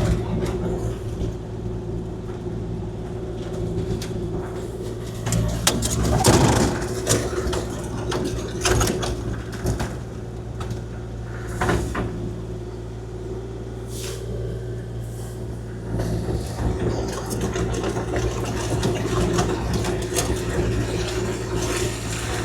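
Kubota KX040-4 mini excavator's diesel engine running steadily under load while its dozer blade spreads gravel, with several loud knocks and scrapes from the blade and rock.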